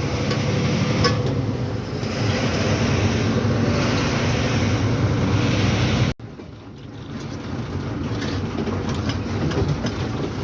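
Lorry driving on a rough road: steady engine and road noise. About six seconds in it cuts off abruptly and comes back quieter, building up again.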